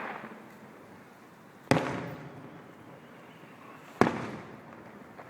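Festival fireworks bursting overhead: two sharp booms a little over two seconds apart, each followed by a rolling echo that dies away.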